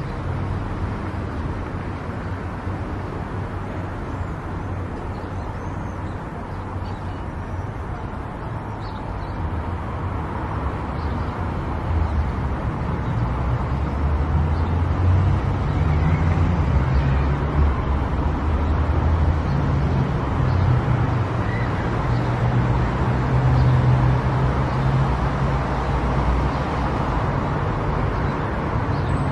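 A car driving, with a steady low rumble of engine and road noise that grows louder about a third of the way in.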